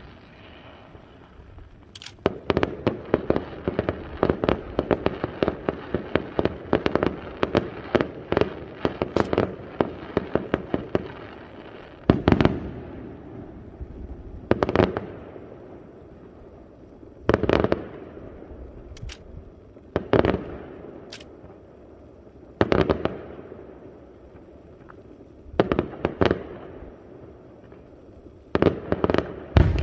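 Aerial firework shells bursting: a rapid volley of crackling reports for several seconds, then single loud bursts every two to three seconds.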